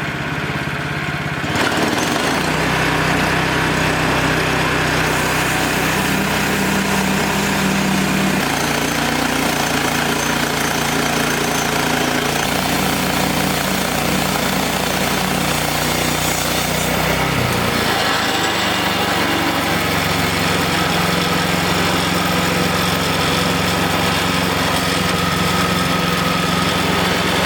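Wood-Mizer LX25 band sawmill running with its small engine. It steps up from an idle about two seconds in to a steady working run with a hiss over it, typical of the band blade cutting through a log, and its note changes again about two-thirds of the way through.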